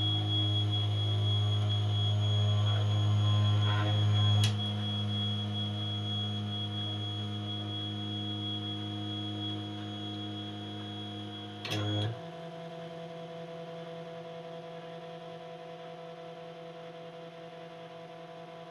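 CNC 2417 mini milling machine running: its motors give a steady, multi-tone whine. The pitch changes abruptly with a short click about four and a half seconds in and again about twelve seconds in.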